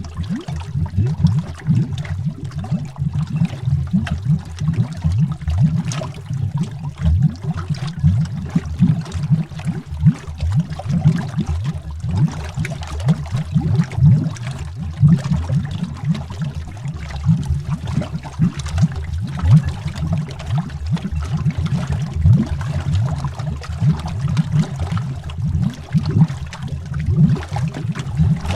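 Underwater bubbles rising in a continuous stream, a dense run of low, quick pops and burbles with fainter ticks above them.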